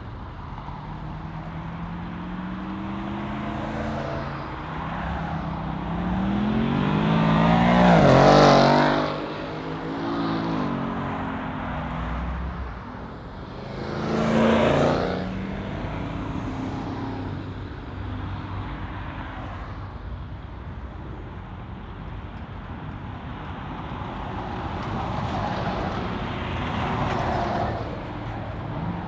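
V8 muscle cars driving past one after another with loud exhausts, two close passes about eight and fourteen seconds in, the first the loudest, and the engine pitch rising and falling as they go by.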